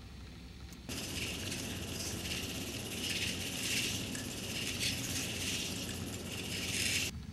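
Dried flower stalks rustling and rattling as they are swayed, a dry hiss that rises and falls, starting abruptly about a second in and cutting off abruptly near the end.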